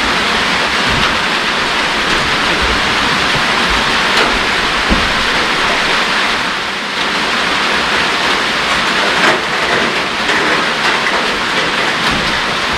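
Heavy rain falling steadily, a dense even hiss with a few faint taps in it.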